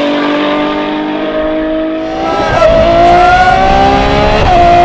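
Ferrari 812 Superfast's naturally aspirated 6.5-litre V12 with a Novitec exhaust under hard acceleration. Its pitch climbs steadily, dips with an upshift about two and a half seconds in, climbs again louder, and shifts once more near the end.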